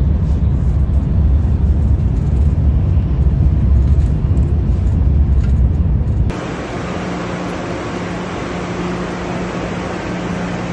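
Steady low rumble of a moving vehicle. About six seconds in it cuts off abruptly and gives way to a quieter, even hiss with a steady low hum.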